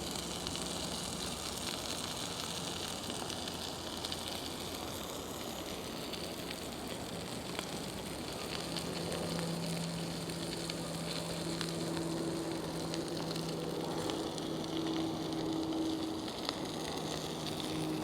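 Food sizzling over a cooking fire: a steady frying hiss with scattered small crackles. About halfway through, a low steady hum joins in.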